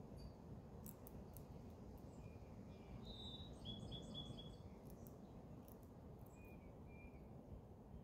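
Faint birdsong: a quick run of short high chirps about three seconds in, with a few single chirps later, over a steady low background rumble. There are a few faint clicks.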